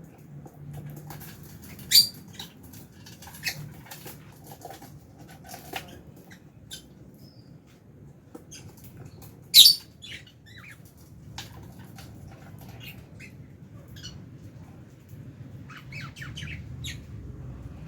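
Flock of lovebirds, Fischer's and albino, giving short sharp chirps and squeaks, two much louder than the rest, among light clicks and rustling.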